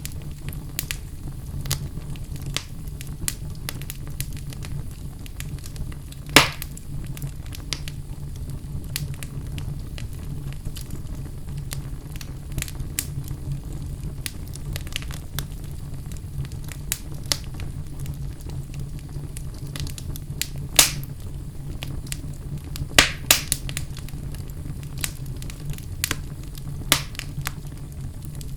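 Wood fire burning in a fireplace, crackling steadily over a low rumble, with a few louder pops about 6, 21 and 23 seconds in.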